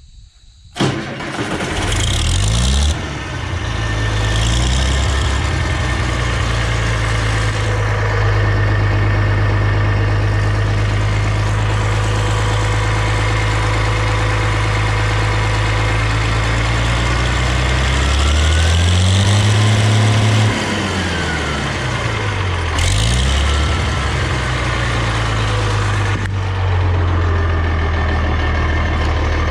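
Farmall diesel tractor engine starting warm after glow-plug preheat, at about three-quarter throttle. It catches about a second in and settles into a steady run. About two-thirds of the way through, the engine speed rises, falls back and steadies again.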